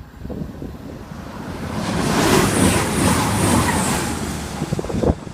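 A CrossCountry passenger train passing straight through the station at speed without stopping: a rushing noise of wheels and air that swells to a peak about two seconds in, with a regular beat as the bogies go by, then eases off.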